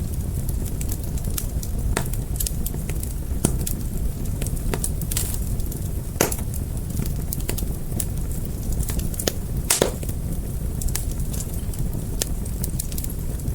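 Wood fire burning with a steady low rumble and irregular crackles and pops, a few of them louder snaps.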